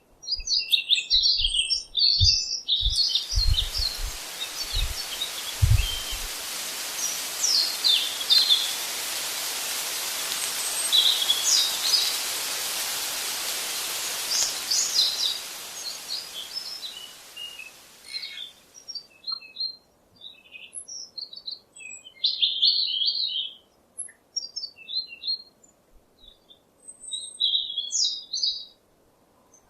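Wild birds chirping and singing in short, repeated calls. From about three seconds in until about eighteen seconds, a steady rushing hiss lies under them, and a few low thumps come in the first six seconds.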